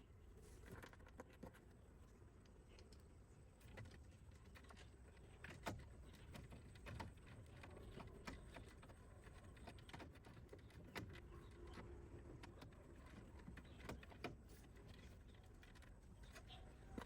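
Faint, scattered light clicks and taps, irregular and a few louder than the rest, over a low steady background rumble.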